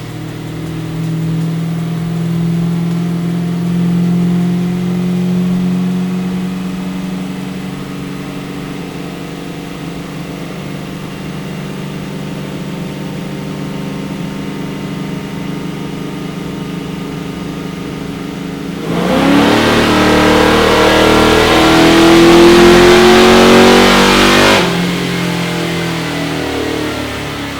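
A 427 cubic-inch LSX V8 in a 1968 Camaro running on a chassis dyno. It holds a steady engine note for most of the stretch, then about two-thirds of the way in goes to full throttle, rising in pitch for about five seconds under dyno load before backing off to a steady run.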